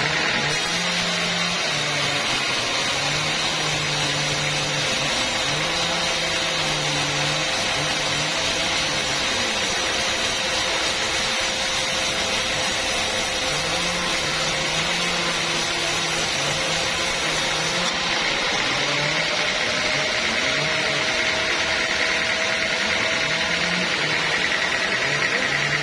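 Sawmill saw running steadily through a teak log, with a wavering low engine note under a bright cutting hiss. The hiss falls away about two-thirds of the way through while the machine keeps running.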